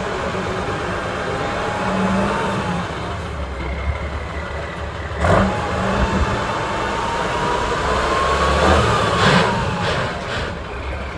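Trial truck's engine revving under load, with a whine that climbs slowly and then drops away, twice. A sharp knock sounds about five seconds in, and a smaller one near the end.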